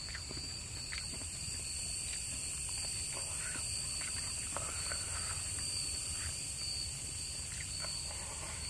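Close-up chewing and soft mouth and finger sounds of eating rice and meat by hand, over a steady high chirring and trilling of night insects.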